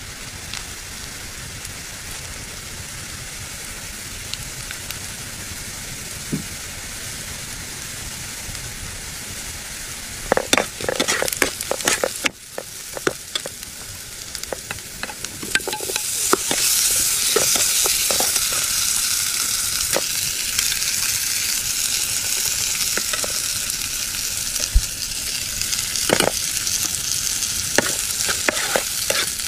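Sliced potatoes and onion sizzling in hot oil in a metal pan, with a steel ladle scraping and clinking against the pan as they are stirred. The sizzle grows louder about halfway through.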